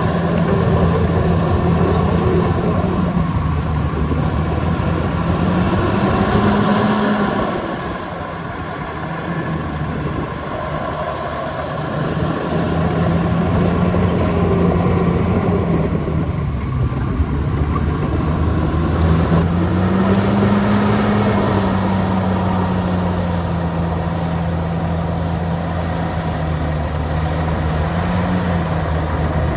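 Heavy diesel engine of earthmoving machinery running steadily under load. Its note rises briefly twice, and it eases off for a few seconds about a third of the way in before picking up again.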